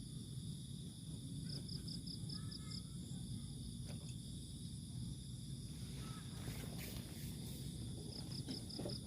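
Crickets and other insects trilling steadily in a high-pitched chorus. Twice, one of them gives a quick run of about six chirps.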